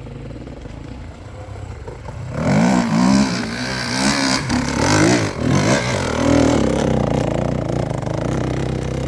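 Dirt bike engine working hard on a hillclimb: a low hum for about two seconds, then a loud engine whose revs rise and fall again and again as the throttle is worked.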